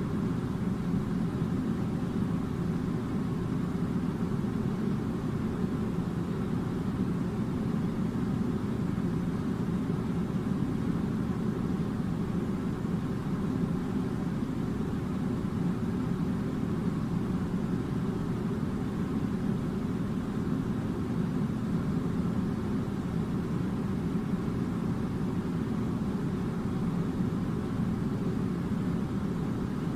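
A steady low droning noise that does not change.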